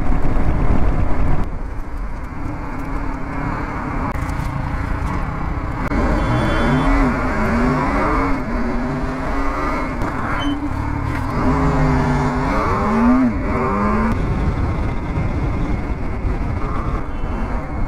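BMW G 310 GS single-cylinder engine running as the motorcycle rides through traffic, with road and wind noise. In the middle stretch its pitch rises and falls several times with the throttle.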